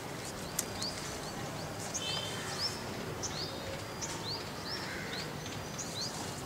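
Small birds chirping in the background: many short, high, upward-sweeping chirps, a few each second, over a steady outdoor hiss.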